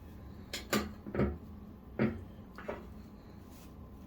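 A few light clinks and knocks of household items being handled, about five over two seconds, some with a short ring.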